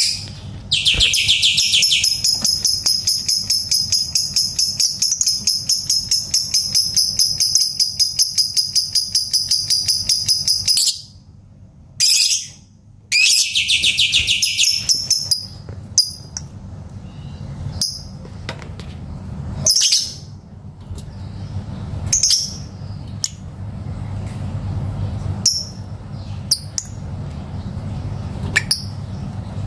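Lovebird calling: a long, rapidly pulsing, high-pitched trill lasting about ten seconds, then a shorter burst of a couple of seconds, followed by scattered short chirps.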